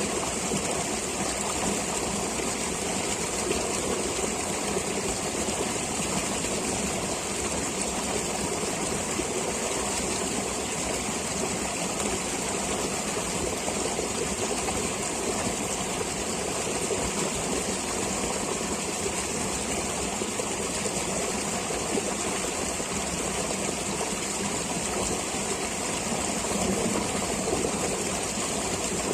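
Flowing stream water running steadily, an even rushing noise with a steady high hiss over it.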